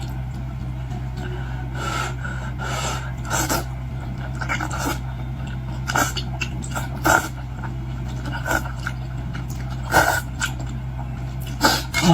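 Close-miked eating of boiled seafood: irregular wet chewing, smacking and slurping sounds over the steady low hum of an air conditioner.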